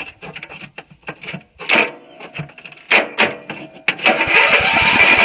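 A few clicks and knocks, then about four seconds in the riding lawn mower's engine starts and runs with a fast steady putter.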